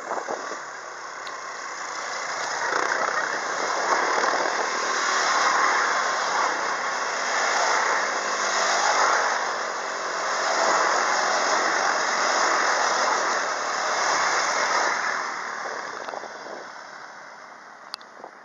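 Quad bike engines running on the move, mixed with tyre and wind noise. The sound swells over the first few seconds, holds, then fades away near the end.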